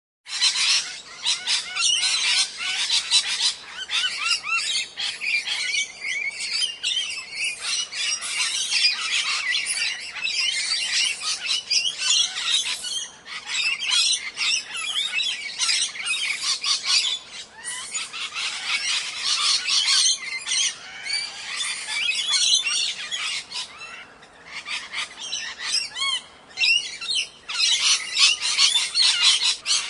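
A flock of birds chirping and squawking, many high, quick calls overlapping almost without a break. The calls start suddenly.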